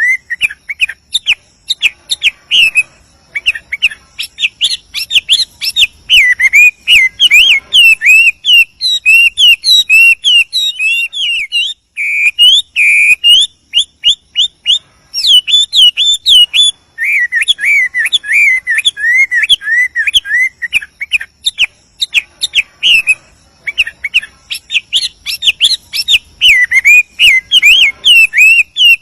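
Male Chinese hwamei singing a fast, varied, rolling run of loud whistled phrases, its notes sliding up and down, with brief pauses about twelve and fourteen seconds in.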